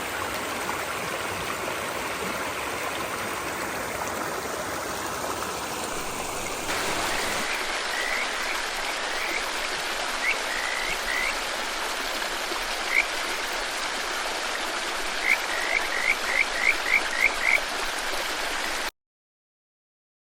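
Stream water running steadily. Over it come scattered short rising chirps, then a quick run of about seven. The sound cuts off shortly before the end.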